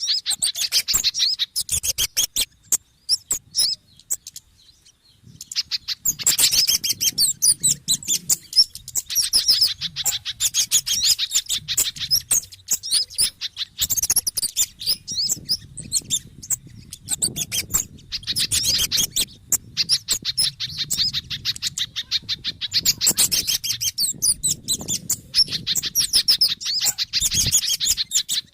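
Bird-lure recording of agitated small-bird calls mixing kemade, sogon and spiderhunter (pijantung) calls: fast, dense, high chattering chips in bouts, with a short break a few seconds in.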